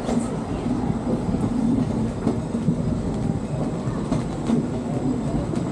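Steam train running, heard from an open-sided passenger car: a steady rumble of wheels on the rails, with a few scattered clacks.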